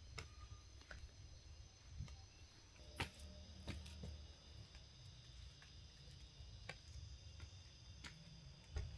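Near silence: faint low room rumble with scattered soft clicks, one a little louder about three seconds in and another near the end.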